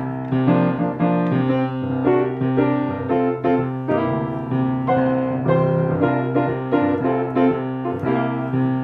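Piano playing a chord progression in the right hand over a pedal point: one low bass note held and repeated in the left hand while the chords above change every second or so.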